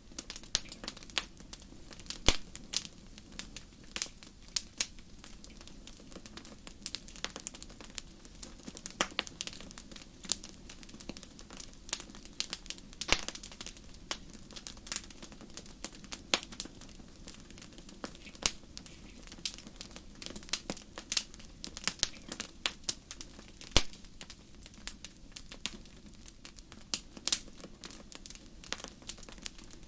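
Campfire crackling: a steady soft hiss of burning wood with frequent irregular sharp pops and snaps.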